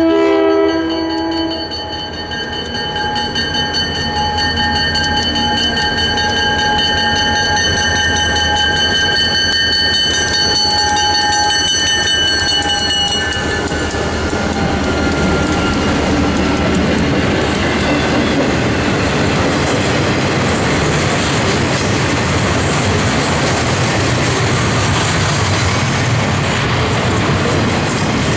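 Two EMD SD40-2 diesel locomotives passing close by at the end of a horn blast. The horn cuts off just after the start, the engines run with a high whine that drops in pitch as they go by about 13 seconds in, and then the loaded rail train's cars rumble and clatter past steadily.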